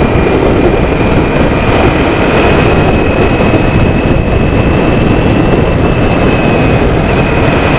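Kawasaki Z400 parallel-twin with a Toro aftermarket exhaust and dB killer, running steadily at cruising speed, heard through a heavy, even rush of wind noise on the rider's microphone. A thin, steady high whine runs underneath.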